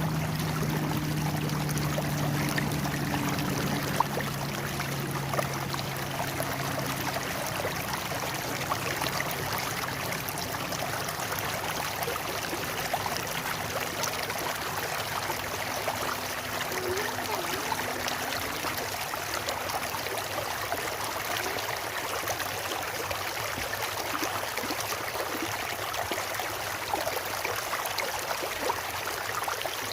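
Stream water flowing and splashing steadily in a constant rush. A low steady hum fades out over the first several seconds.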